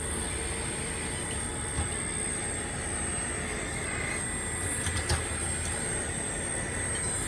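RC CAT 336D2 model hydraulic excavator running under test: a steady machine hum with a thin high whine, and a few brief knocks about two seconds and five seconds in.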